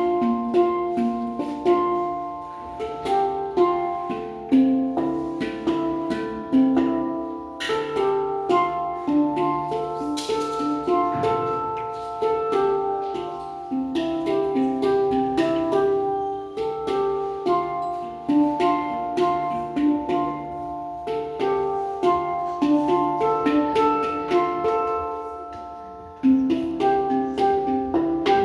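Handpan played with the fingers: a melodic tune of struck, ringing bell-like notes in quick succession, each note sustaining into the next. The notes thin out briefly near the end before the tune picks up again.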